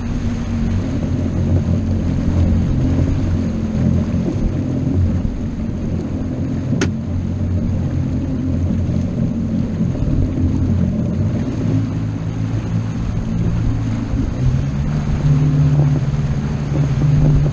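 Motorboat engine running steadily with a deep hum, its note shifting and strengthening about three-quarters of the way through.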